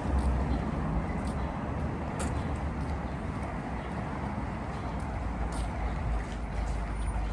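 City street traffic: a steady low rumble of passing cars and buses, with a few faint clicks over it.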